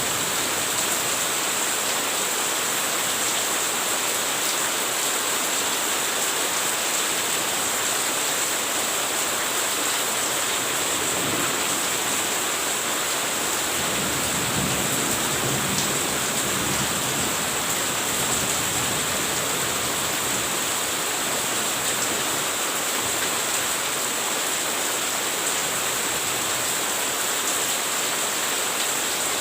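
Steady rain, a loud, even hiss without a break, with a little added low rumble about halfway through.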